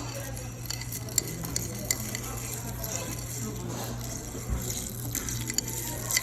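Iced coffee stirred hard in a glass: ice cubes clinking against the glass and the liquid sloshing in quick, irregular clicks, over a steady low hum.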